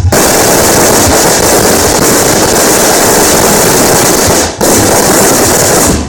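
Fireworks crackling in a loud, dense, unbroken barrage, with a brief break about three-quarters through.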